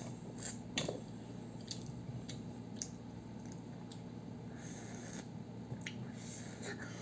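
A child chewing a mouthful of broccoli: scattered crisp crunches and squishy mouth sounds, the sharpest about a second in, over a steady low hum.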